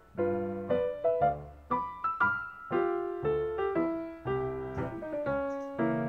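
Gentle background piano music: single notes and chords struck one after another, each left to ring and fade.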